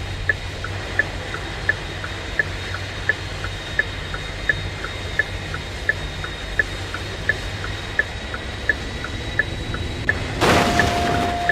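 Car turn-signal relay ticking in an even tick-tock, about three clicks a second, over the low hum of the cabin. Near the end there is a short rush of noise with a brief beep.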